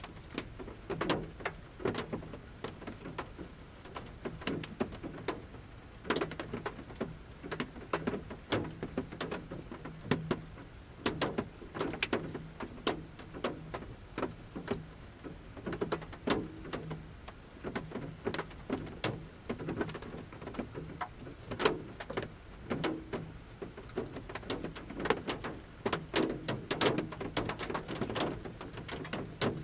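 Large raindrops falling from a forest canopy onto the metal roof of a camper van, landing as irregular ticks and hollow knocks over a faint hiss of light rain.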